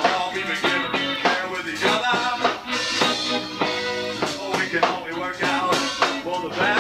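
Live band playing a song: guitar over bass guitar, drums and bongos.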